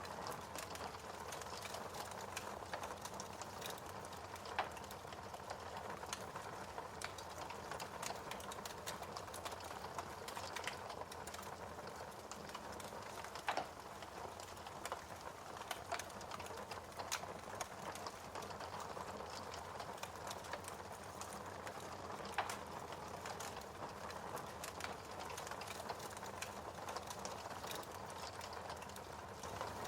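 Fireplace fire crackling: a steady hiss with many small irregular pops and a few louder snaps scattered through.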